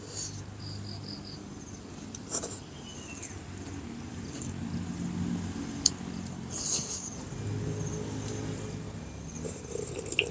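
Eating sounds: a man chewing a mouthful of rice and fish, with a few sharp mouth clicks and smacks over a low, steady hum.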